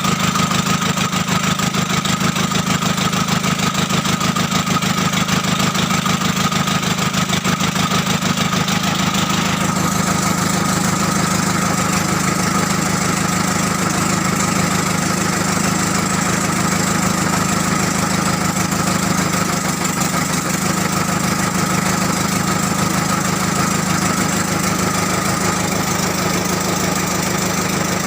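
Komatsu diesel engine running steadily at idle after an overhaul.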